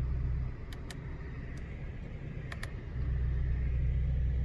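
Audi RS6 C8's twin-turbo V8 idling, heard from inside the cabin as a steady low hum that dips quieter for about two and a half seconds. A few light clicks from cockpit controls being pressed.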